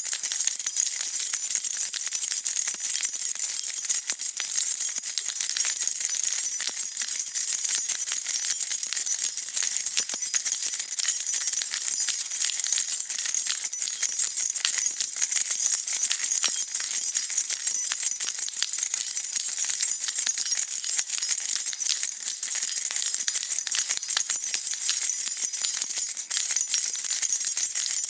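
A bunch of metal keys jingling, shaken continuously: a dense, steady stream of small high-pitched clinks with no pauses.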